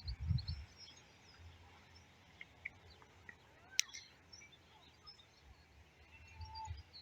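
Wind buffets the phone's microphone in low gusts during the first half-second. Faint bird chirps are scattered throughout, with one sharp click about four seconds in.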